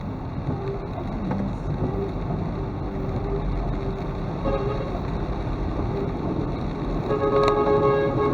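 Steady traffic and road noise, with a vehicle horn sounding faintly about four and a half seconds in and then louder for about a second near the end.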